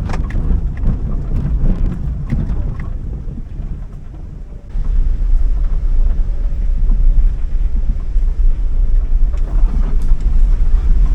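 Strong gale wind buffeting the microphone: a deep, gusty rumble that suddenly gets much louder about five seconds in.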